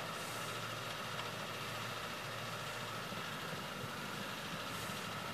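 Suzuki SJ413's 1.3-litre four-cylinder petrol engine running steadily as the jeep works at a slippery, snow-covered hill, with no revving.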